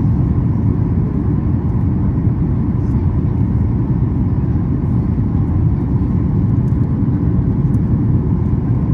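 Steady cabin noise inside a Boeing 737-8 MAX in flight: an even low rumble of engine and airflow with no change.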